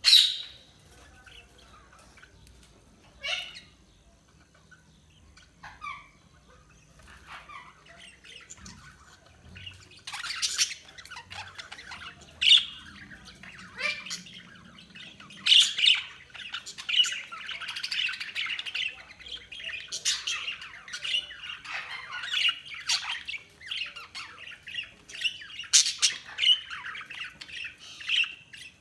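Budgies chirping and chattering. A few single sharp calls come in the first part, then from about ten seconds in a steady warbling chatter sets in, with loud sharp squawks mixed through it.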